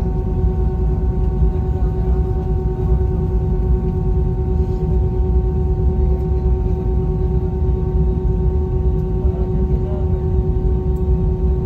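Airbus A320-family airliner heard from inside the cabin: a steady low rumble from the engines and airframe with a steady multi-tone whine above it.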